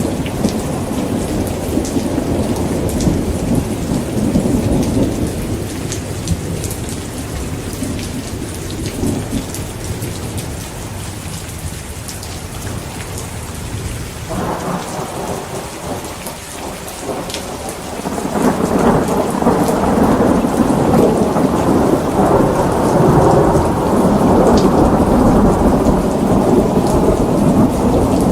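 Heavy rain with rolling thunder. The low rumble eases off around the middle, then swells again and stays strong through the last third, over a steady patter of drops.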